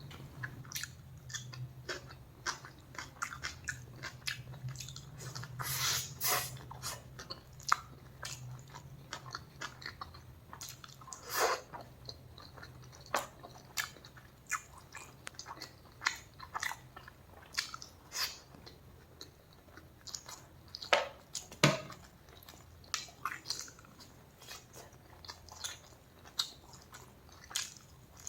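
A person eating close to the microphone: irregular wet chewing and biting with crisp, sharp clicks, a few bites much louder than the rest.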